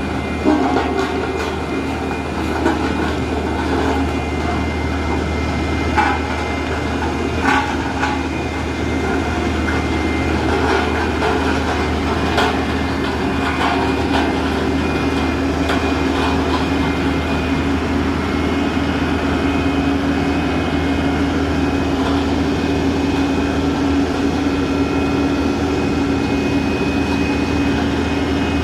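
Heavy truck engine running steadily as it climbs, with a few sharp knocks in the first half.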